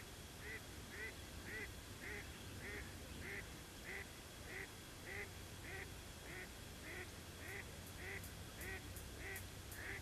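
Faint short call, likely from a bird, repeated evenly a little under twice a second over a low steady hum.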